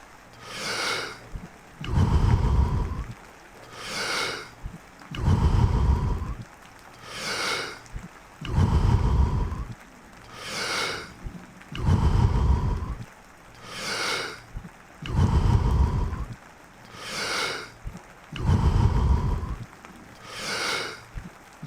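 Wim Hof method power breathing: deep, forceful breaths in and out through the mouth, repeated steadily about once every three and a half seconds. Each cycle alternates a deep rushing breath with a higher, hissing breath.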